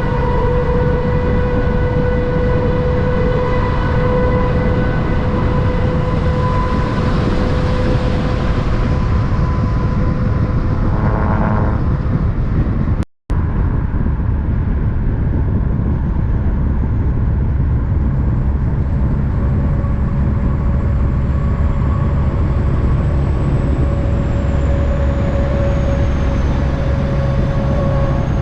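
Big-rig truck diesel engine running, loud and steady, with a steady whine over the low rumble. About halfway through the sound drops out for an instant, then a deeper, heavier engine rumble carries on.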